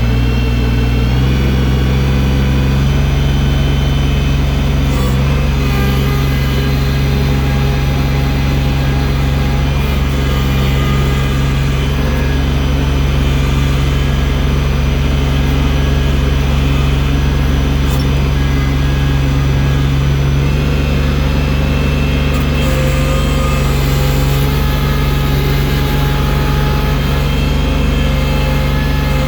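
Engine of a bucket loader running steadily at working revs while it moves heavy drifted snow; the revs climb at the very start and then hold.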